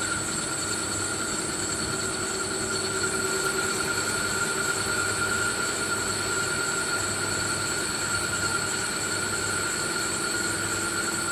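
CNC machine running steadily: an even mechanical hiss with several constant high tones over a low hum.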